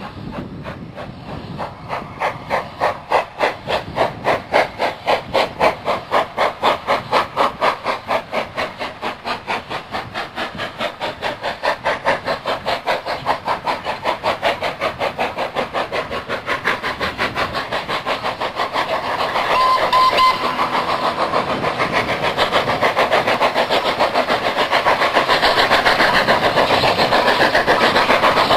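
Steam locomotive exhaust chuffing as it pulls away, the beats quickening steadily from a few a second to a fast continuous beat, with a brief high tone about twenty seconds in.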